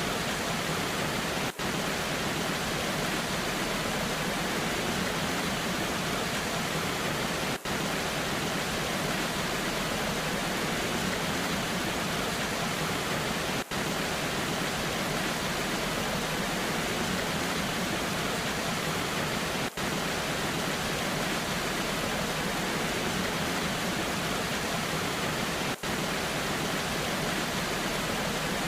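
Waterfall and rain rushing steadily, an even hiss across all pitches, broken by a very short drop in level about every six seconds.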